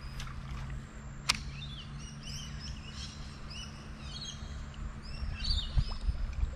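Several birds chirping and calling in quick, short repeated notes, with one sharp click about a second in and a low steady hum underneath.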